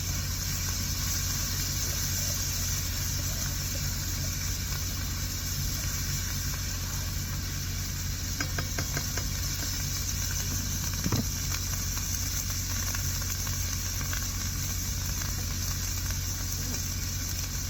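Stir-fry sizzling steadily in a hot pan with chili oil just added, over a constant low hum. A few light utensil clicks come about halfway through.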